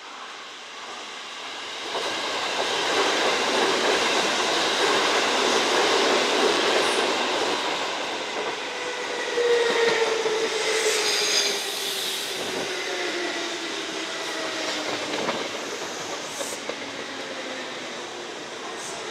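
Kintetsu electric train coming through the station. It grows loud over the first few seconds, then its motor whine falls slowly in pitch as it slows, with a brief high squeal and clatter about ten seconds in.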